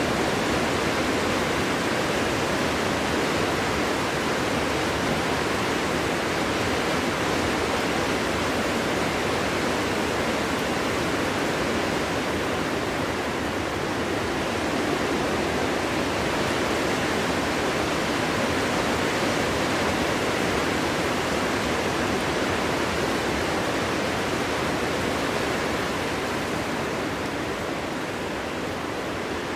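Winter wind blowing through a forest: a steady rushing with no single gust standing out, easing slightly near the end.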